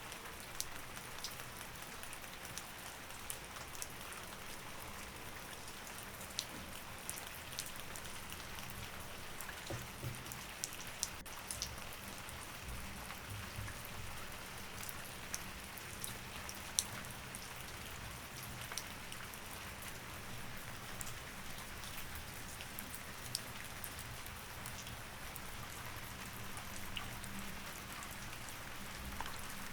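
Steady rain falling, with scattered sharp taps throughout.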